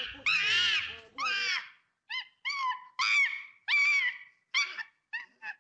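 A monkey calling with high-pitched squeals: two longer calls that rise and fall in pitch, then a string of shorter squeaks with short gaps between them.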